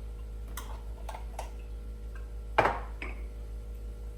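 A metal spoon clinking against a jar and pot: about five light, sharp taps and clicks, with the loudest knock a little past halfway.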